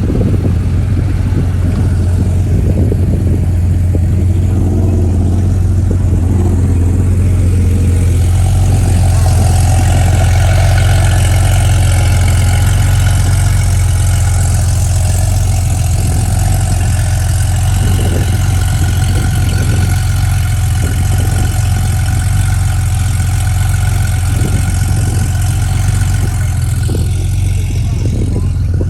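Vehicle engine idling with a constant low rumble. A steadier, higher engine note joins about nine seconds in and fades out near the end.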